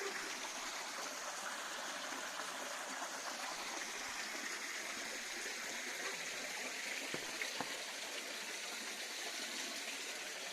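Steady running water at a carp pond, with a couple of faint ticks about seven seconds in.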